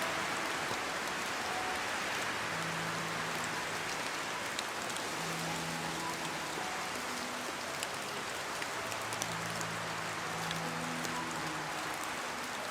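Steady heavy rain: a dense, even hiss with scattered sharp drop ticks. Faint low held tones come and go underneath.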